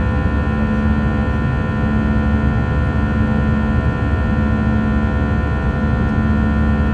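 Inside the cabin of an Airbus A321 during takeoff: the turbofan engines and airflow make a steady hum, with several steady tones over a low rumble.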